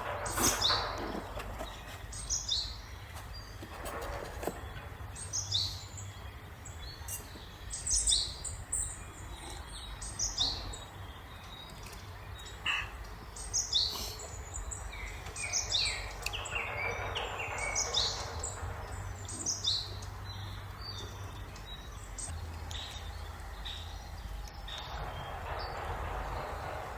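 Small birds chirping, with many short high calls repeated at irregular intervals over a steady low rumble. A soft rush of noise swells up twice, once around the middle and once near the end.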